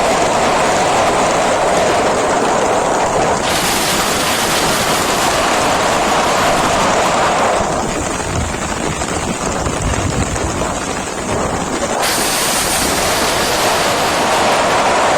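Loud, steady rush of heavy rain with wind buffeting the microphone. Its tone changes abruptly about four, eight and twelve seconds in.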